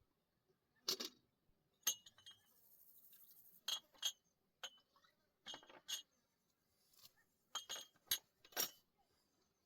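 A string of sharp, light clinks and clicks at irregular intervals, about a dozen in all, like small hard objects knocking together.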